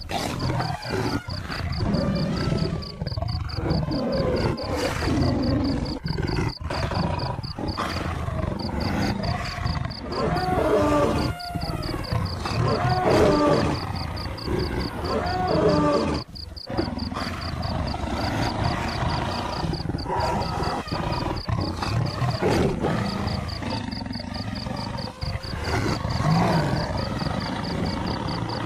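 Wild animal growls and roars, big-cat type, over a busy continuous soundtrack. Between about ten and sixteen seconds in come several drawn-out calls that rise and fall in pitch.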